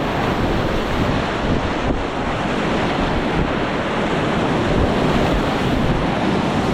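Whitewater rapids rushing loudly and steadily, with wind noise on the microphone.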